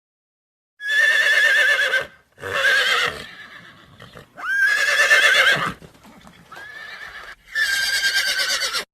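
Horse neighing: five whinnies in a row, each a high, quavering call about a second long, the fourth quieter than the rest.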